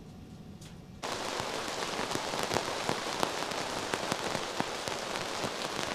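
Heavy rain on a tent, coming in suddenly about a second in as a dense, steady hiss full of sharp ticks from individual drops, after a fading low rumble of thunder.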